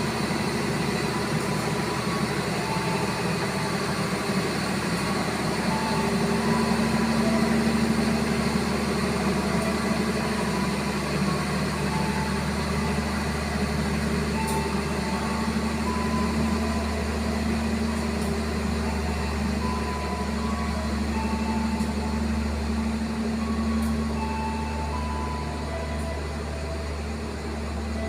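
Diesel-electric locomotive of a passenger train running with a steady low drone as the train departs, swelling slightly about a third of the way in.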